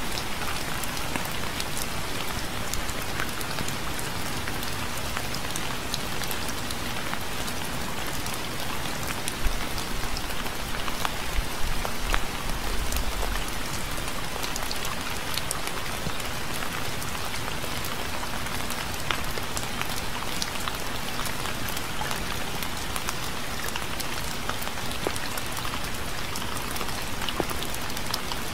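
Steady rain falling, an even hiss with many individual drops pattering on a surface. Roughly ten seconds in, a brief low rumble swells for a few seconds, then fades back under the rain.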